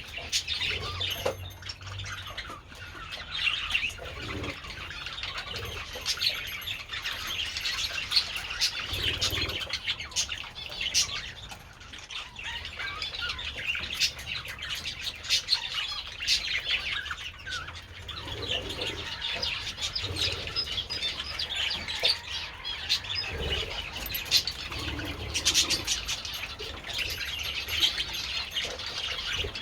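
A flock of budgerigars chattering and chirping, many birds at once in a dense, continuous warble.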